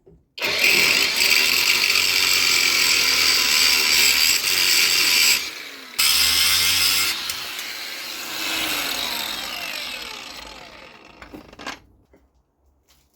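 Angle grinder cutting into a steel spring compressor to modify it. It runs in two long passes with a brief stop about five and a half seconds in, and the second pass slows and winds down before cutting out near the end.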